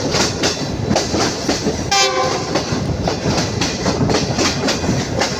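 Passenger train running at speed, its wheels clattering in quick, irregular clicks over rail joints and points. A short train horn blast sounds about two seconds in.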